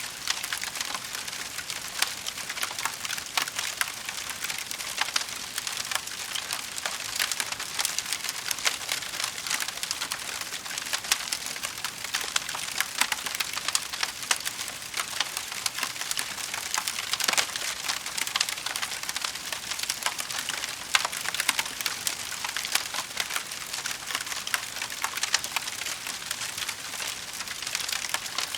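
Wood fire in a fireplace crackling steadily, with dense small crackles over a soft hiss and louder pops here and there.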